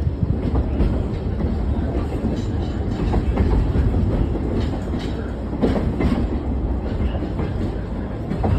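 Train running on its rails: a steady low rumble with irregular clicks and knocks from the wheels.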